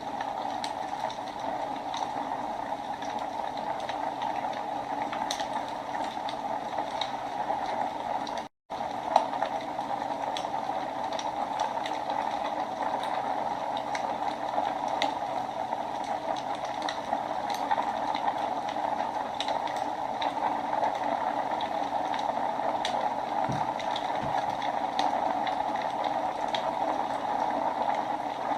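Wood fire burning in a fireplace: a steady hiss and rush of flame with scattered sharp crackles and pops throughout. About eight seconds in the sound cuts out for a split second, followed by a loud pop.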